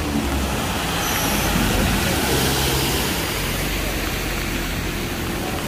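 Heavy rain and floodwater rushing across a street in a steady, dense hiss.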